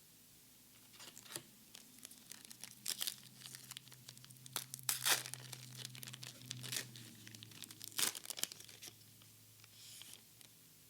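Foil wrapper of a Pokémon card booster pack torn open and crinkled by gloved hands: a run of sharp crackles and rips, loudest about halfway through and again a few seconds later.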